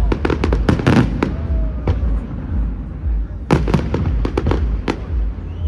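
Aerial fireworks exploding in rapid volleys of sharp bangs, a dense cluster at the start and another about three and a half seconds in, over a steady low rumble.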